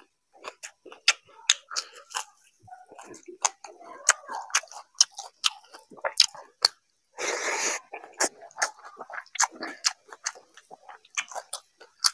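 Close-miked chewing and biting of crisp fried dry fish, many quick crunching clicks, then wetter chewing of rice eaten by hand. A short loud rushing noise about seven seconds in.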